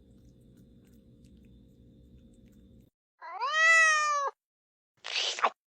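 A faint low hum cuts off about three seconds in. A cat then gives one loud meow of about a second, rising at the start and then holding its pitch. About a second later comes a short noisy burst lasting about half a second.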